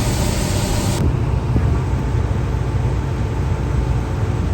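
Diesel engine of heavy farm equipment running steadily with a low rumble. About a second in, the sound changes abruptly and loses most of its hiss.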